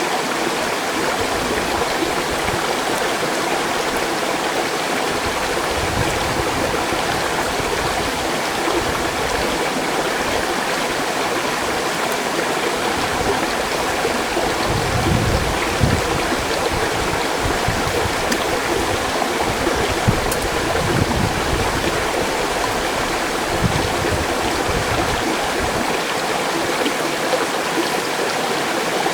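Mountain stream rushing steadily over rocks, with a few soft low rumbles partway through.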